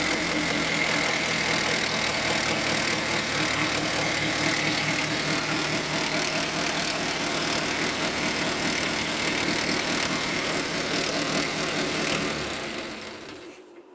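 Isuzu C221 four-cylinder diesel engine running steadily, then shut off about twelve seconds in and running down to a stop.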